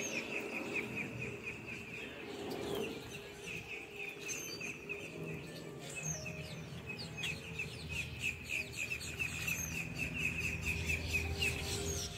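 Birds chirping: rapid trills of short, evenly repeated chirps at the start and again through the second half, with scattered higher calls, over a low steady hum.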